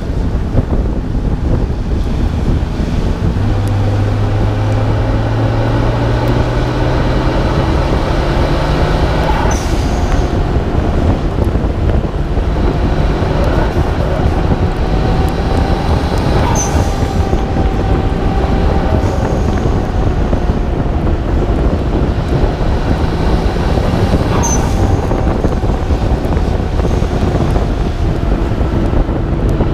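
Nissan Skyline R32 GT-R's twin-turbo straight-six under load on a wet road, its pitch rising as it pulls through the revs, over steady wind and tyre-spray hiss on a hood-mounted microphone. Three short, sharp hisses about seven seconds apart are the blow-off valve venting as the throttle closes.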